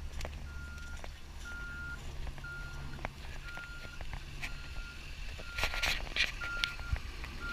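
A vehicle's reversing alarm beeping steadily, one high beep about every second, over a low steady rumble.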